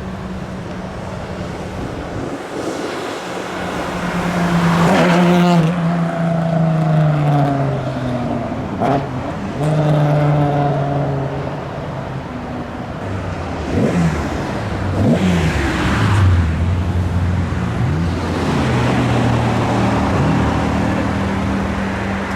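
Engines of classic cars revving and pulling away, one after another. Each engine's pitch climbs and then falls away, and there are several quick rev blips about two thirds of the way through.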